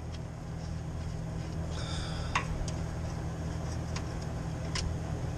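A few sharp metallic clicks of hand tools and parts being handled during work under a vehicle, over a steady low hum.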